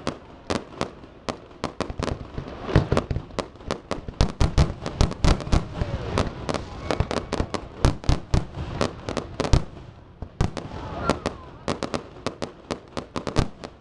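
Fireworks display: a rapid, irregular barrage of bangs and pops, densest in the middle, easing briefly about ten seconds in before another run of bursts.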